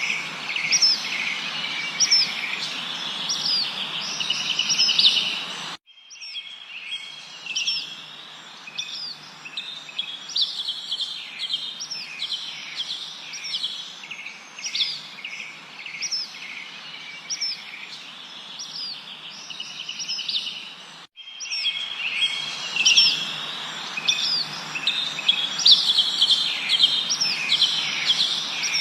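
Many small songbirds chirping and trilling in quick, overlapping short calls over a steady background hiss. The sound drops abruptly to a quieter level about six seconds in and jumps back up just past twenty seconds, like a spliced recording.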